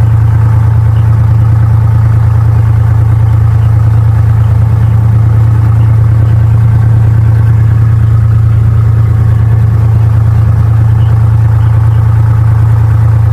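Cessna 172's piston engine and propeller running steadily at a low, even drone.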